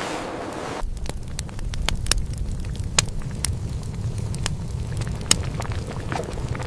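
Fire crackling: sharp, irregular pops over a steady low rumble, beginning about a second in as the preceding music cuts off.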